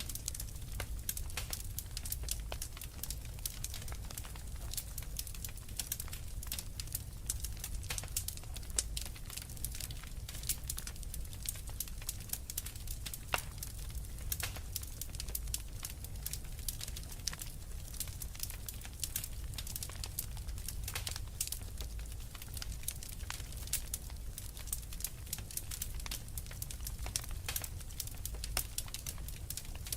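Wood fire crackling in a fireplace: a dense, irregular run of small sharp pops and snaps over a low steady rumble.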